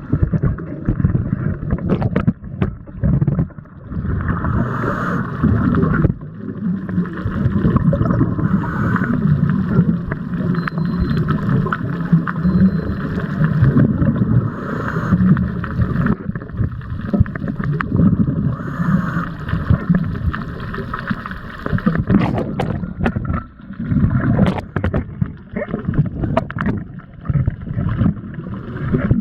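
Muffled water sloshing and gurgling around a Nikon KeyMission 360 camera in the sea, a continuous surging rumble with scattered clicks and knocks toward the end.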